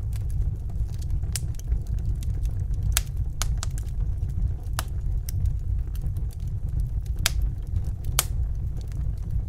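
Wood fire crackling in a fireplace: sharp, irregular pops about once a second over a steady low rumble.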